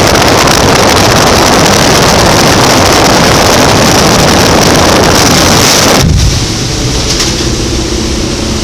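Loud rushing wind over the microphone during a parachutist's free fall, which drops away suddenly about six seconds in, leaving quieter wind and a faint steady drone.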